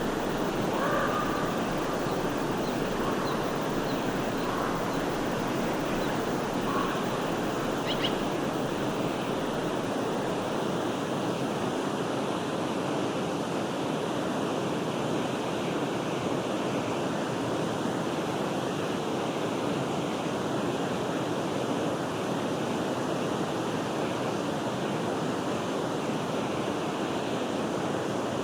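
Steady rushing of a flowing forest stream. A few brief, faint bird chirps come through in the first eight seconds.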